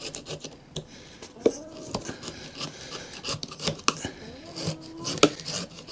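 Hands handling an electronic device's casing on a workbench: scattered light clicks and knocks with rubbing and scraping while it is searched for hidden screws.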